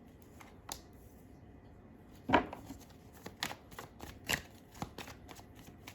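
Tarot cards being handled: a string of sharp card snaps and taps, starting sparse and coming about twice a second from a little past two seconds in, the loudest near that point.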